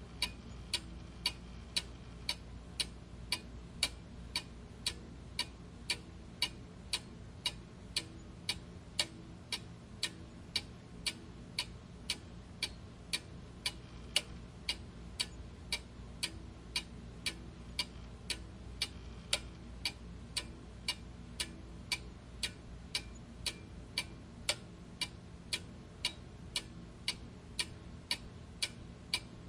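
Clock ticking steadily: sharp, evenly spaced tick-tock clicks, a little under two a second, over a faint low hum.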